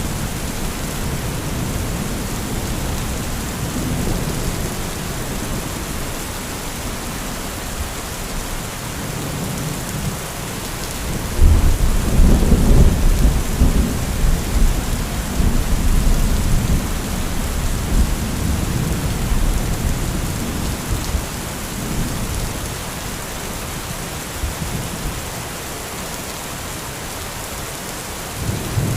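Heavy rain falling steadily, with thunder: a loud, deep rumble sets in suddenly a little over a third of the way in and rolls on for several seconds before easing off, with weaker rumbles before and after.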